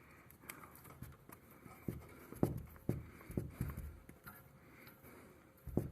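Faint handling noises from joining electrical wires in a connector: scattered small clicks, rubbing, and a few soft knocks.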